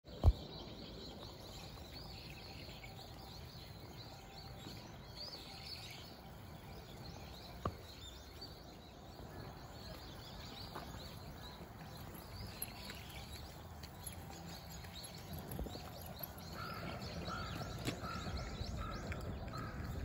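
Wild birds chirping and twittering in short high notes over a steady low background noise, with a run of lower repeated calls near the end. A sharp knock sounds right at the start and a smaller one about eight seconds in.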